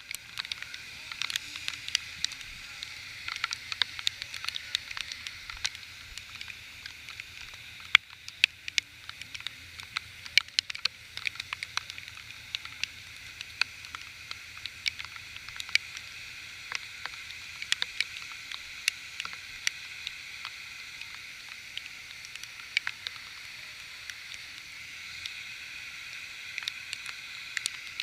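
Heavy rain: a steady hiss with many sharp, irregular ticks of drops striking close by, over a faint steady low hum.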